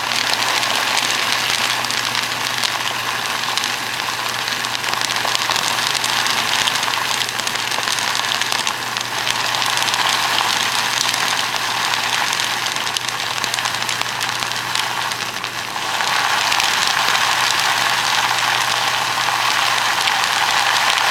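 Dry cat food kibble pouring in a steady stream, a continuous rain-like patter that gets louder about 16 seconds in, over a steady low hum.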